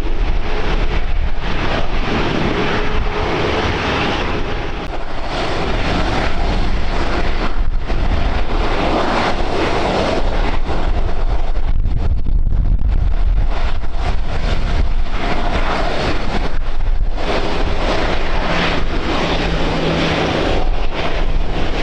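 Airliner engines running, heard through heavy wind buffeting on the microphone.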